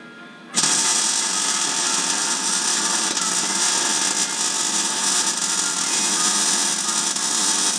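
A loud power tool runs steadily for about seven seconds, starting suddenly just after the start, with faint background music underneath.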